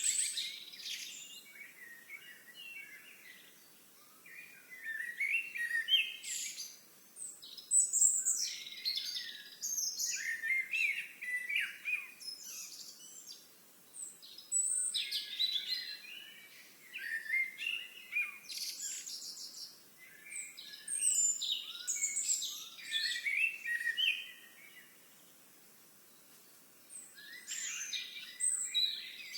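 Songbirds singing, quick twittering phrases of a second or two repeated every few seconds, with a short pause a little before the end.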